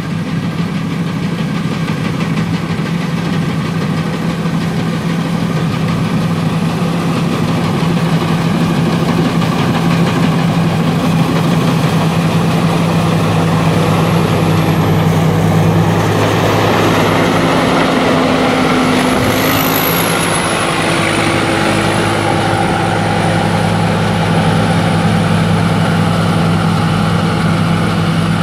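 Rice combine harvester's engine running steadily; about halfway through the engine note shifts and grows noisier, with a faint high whine rising and falling over it.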